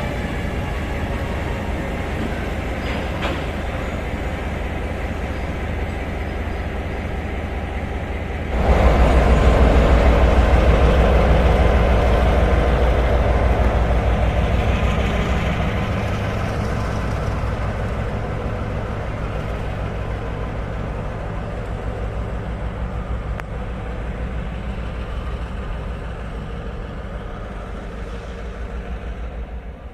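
Train running with a steady rumble. About a third of the way in it turns suddenly much louder, then slowly dies away over the rest of the stretch.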